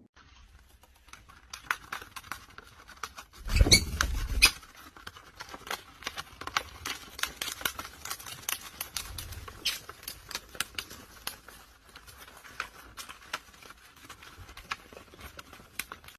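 A pet bird's beak tapping and nibbling: light irregular clicks, several a second, with a louder knocking bump about four seconds in.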